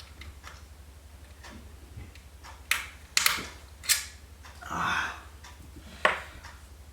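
Sharp metallic clicks and knocks of a screw and screwdriver working against a computer case's drive bay, five or so irregular strikes with a short scraping rattle in the middle, as a screw fails to go in. A steady low hum sits underneath.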